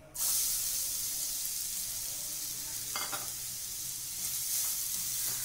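Grated carrot dropped into hot ghee in a kadai, setting off a sudden, steady sizzle a moment in. A light knock about three seconds in.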